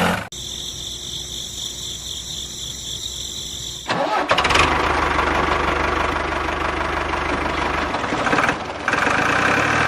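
A motor running with a steady whine. About four seconds in it turns louder and rougher, with a brief drop shortly before the end.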